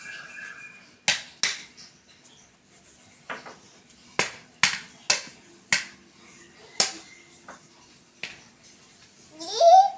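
A series of about a dozen sharp, irregular clicks and taps, then a short call rising in pitch near the end, typical of a pet parrot.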